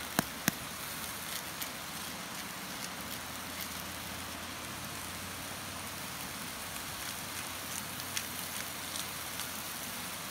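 Sweet potato and garlic frying in oil in a cast-iron camp oven over coals: a steady sizzle with faint scattered crackles, and two sharp clicks right at the start.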